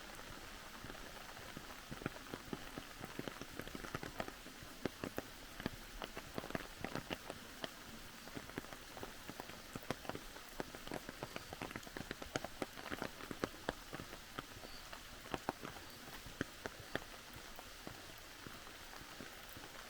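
Rain falling with a steady hiss, with many sharp, irregular raindrop taps on a surface that thicken about two seconds in and thin out near the end.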